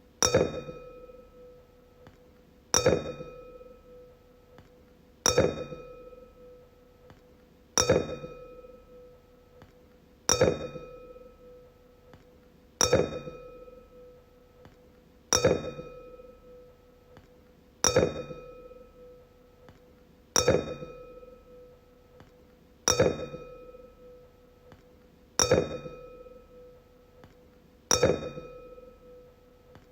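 Wine glass struck and ringing, about once every two and a half seconds. Each sharp tap is followed by a clear, steady ringing tone with higher overtones, fading away before the next strike.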